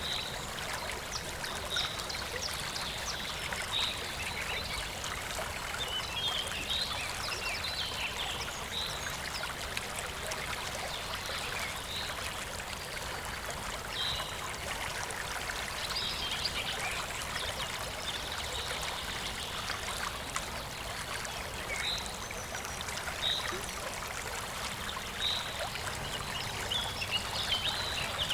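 Clear stream flowing steadily with a babbling trickle, with short high notes recurring every couple of seconds.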